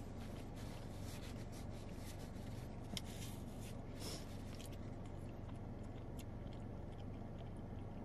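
Close-up chewing of a wet burrito, with soft wet clicks and smacks of the mouth, over a steady low hum.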